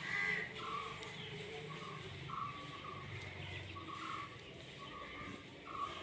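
Birds calling outdoors in short, repeated notes, several a second apart, with a louder, higher-pitched call right at the start.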